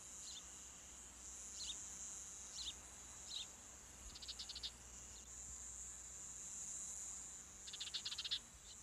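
Faint field ambience: a steady high-pitched insect drone, with short chirps every second or so and two rapid trills, one near the middle and one near the end.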